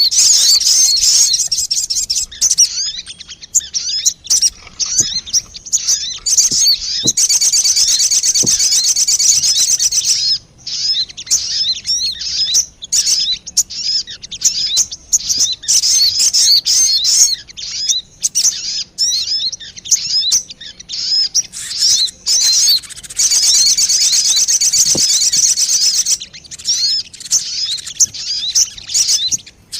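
Sogon bird lure call: a fast, dense stream of high chirping notes rising and falling, with two stretches of continuous trilling, about a quarter and three quarters of the way through.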